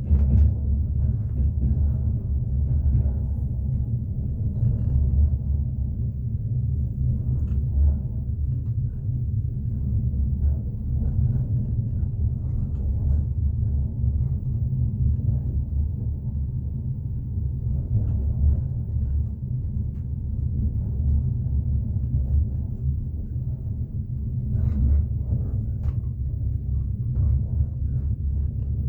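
Passenger train running, heard from inside the carriage: a steady low rumble with faint clicks of the wheels.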